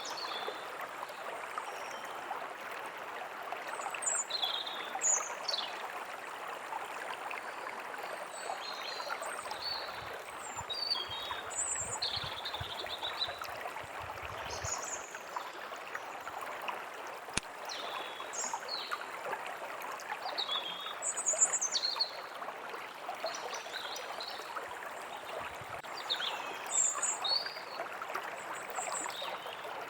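Steady rush of a running stream, with small songbirds chirping and whistling in short, scattered calls above it.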